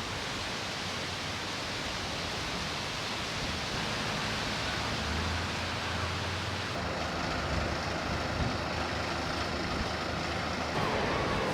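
Steady outdoor rushing noise, with a low hum for about two seconds in the middle.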